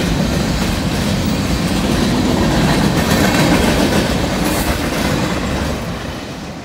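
Norfolk Southern freight train of boxcars rolling past, steel wheels clattering on the rails. The noise falls off about six seconds in as the last cars go by.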